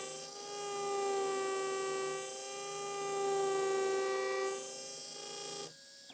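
Implant surgical drill in a contra-angle handpiece running at speed, a steady high whine that swells slightly and then cuts off suddenly near the end as the motor is stopped.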